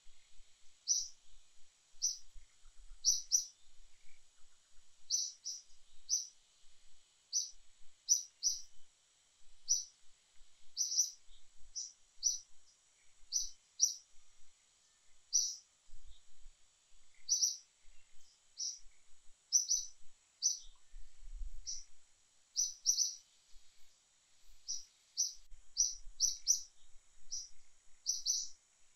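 A bird chirping over and over: short, high, separate chirps, roughly one to two a second at uneven intervals, over a faint steady high-pitched tone.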